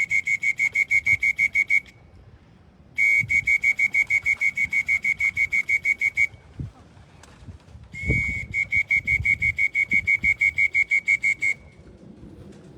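A whistle blown in three runs of rapid, evenly spaced short blasts, about six a second at one steady high pitch, the call used to bring racing pigeons down into the loft.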